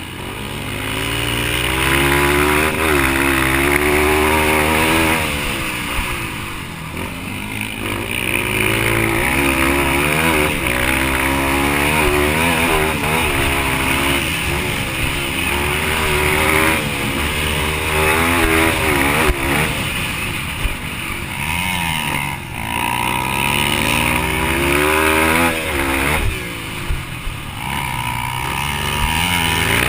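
Yamaha TTR230 single-cylinder four-stroke dirt bike engine revving hard under racing load. The pitch climbs and drops again and again as the throttle is worked and gears change through the corners and straights.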